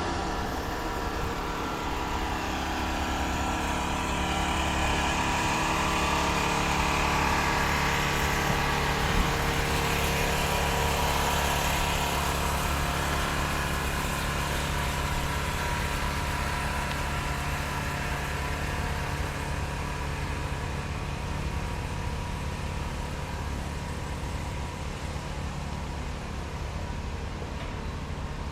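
Road traffic: vehicle engines and tyre noise, swelling as a vehicle passes close by in the first third and then easing off into a steadier background.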